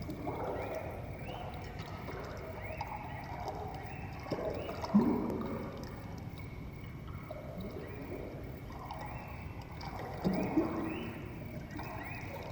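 Live ambient music: swooping, gliding tones that come back every two to three seconds, each wave starting on a low note that slides upward, over a steady wash of sound.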